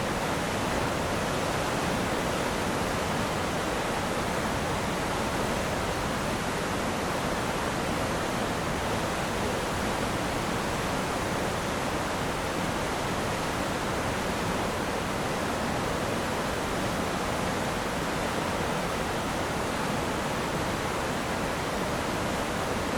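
Water gushing through the open shutters of a dam, a steady, unbroken rush.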